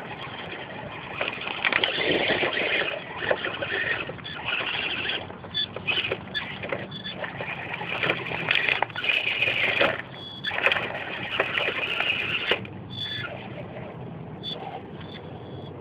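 Axial Honcho RC crawler with a brushless outrunner motor, driven in stop-start bursts: the motor and drivetrain run with a gritty, noisy sound that starts and stops every second or two.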